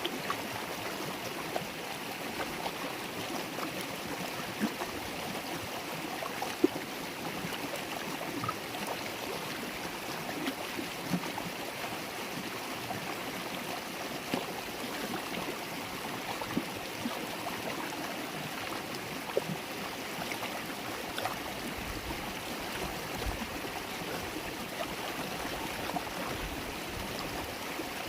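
River water babbling steadily, with scattered small splashes and drips.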